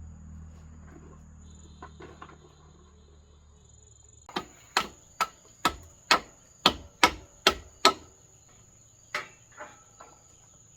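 Hammer blows on wood: a run of nine quick strikes at about two a second, then two more after a short pause, typical of driving a nail or pin while assembling a wooden house frame. A steady high cricket trill runs underneath.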